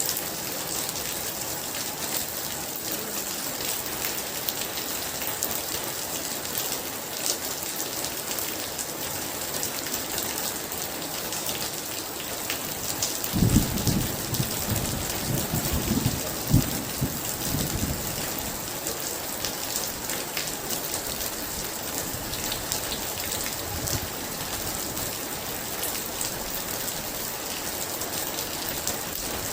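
Very heavy rain falling in a steady hiss, dense with drop patter. About halfway through, a roll of thunder rumbles low for several seconds, and a fainter rumble follows later.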